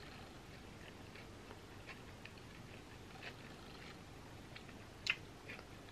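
Faint close-up chewing: a person eating with the mouth closed, with scattered small mouth clicks and a sharper click about five seconds in.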